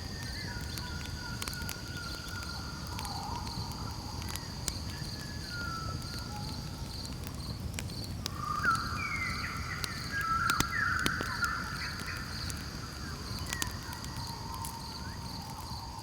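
Campfire crackling with scattered sharp pops over a low rumble, with a steady high pulsing insect trill behind it. Animal calls waver and glide throughout and are loudest about halfway through.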